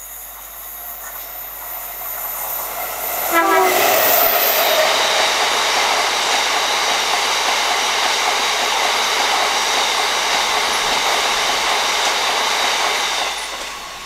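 Class 70 diesel freight locomotive approaching and running past at speed, followed by a long train of empty box stone wagons rumbling and clattering over the rails. The sound builds steadily, is loudest from the moment the locomotive draws level, and fades as the last wagons go by near the end.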